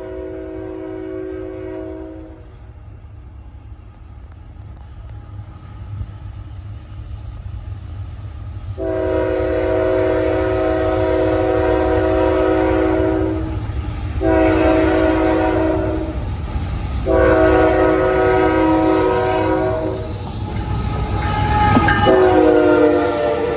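CSX diesel freight locomotive sounding its horn chord in repeated blasts over a steady engine rumble: one blast ends about two seconds in, then after a pause come a long blast, a shorter one and another long one, and a last blast near the end whose pitch drops as the locomotive passes.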